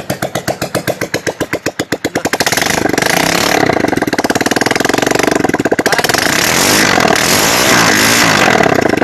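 Yamaha FZ's single-cylinder engine through a loud customized exhaust, idling with a pulsing beat, then revved about two and a half seconds in and held at high revs, dropping back to the pulsing idle near the end.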